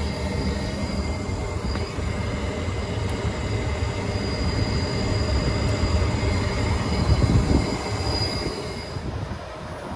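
Carrier rooftop HVAC unit running with its panel open: a steady mechanical rumble with a thin high whine over it, dropping off somewhat about nine seconds in.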